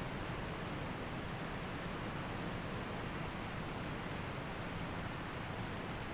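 Waterfall and creek water rushing in a steady, unbroken roar of noise.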